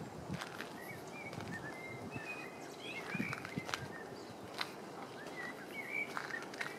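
Small birds chirping and twittering in short whistled notes, with the soft footsteps of a person walking.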